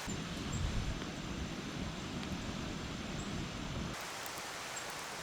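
Steady outdoor background hiss, with an irregular low rumble under it for the first four seconds that cuts off suddenly.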